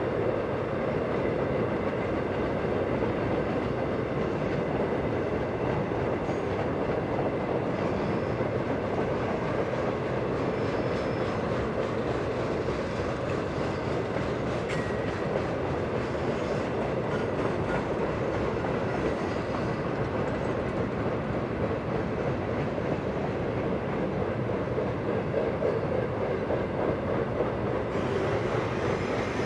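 Steady rumble of a BNSF intermodal freight train's cars rolling across a steel truss bridge, with a faint clickety-clack of wheels over rail joints.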